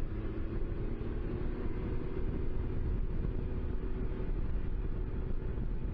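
Honda CTX 1300 motorcycle's V4 engine running steadily while cruising, with wind rushing past the helmet microphone.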